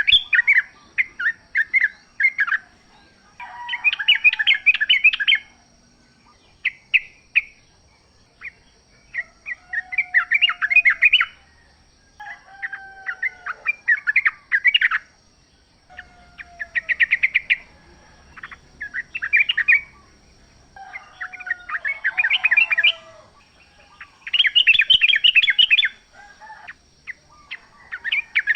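Yellow-vented bulbuls (trucukan) singing in the wild: short bursts of quick, bubbly, chattering phrases repeated every two to three seconds, some joined by a lower slurred note.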